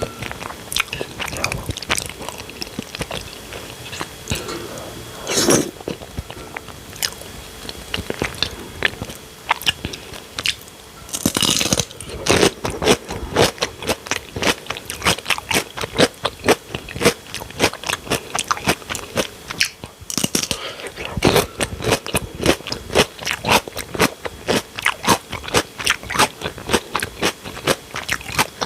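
Close-miked eating: a few separate bites, then rapid crunchy chewing at about three or four crunches a second, which carries on through most of the second half.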